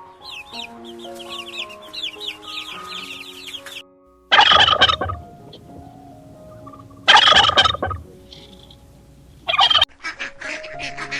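Small birds chirping rapidly for the first few seconds over background music, then a larger bird giving three loud calls, the last one short.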